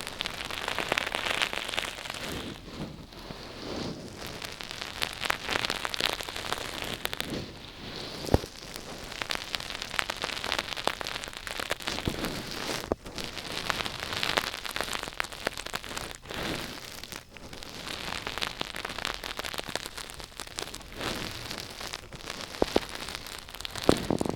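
Close-miked ASMR crackling and scratching, rising and falling in swells every couple of seconds, with a few sharp taps.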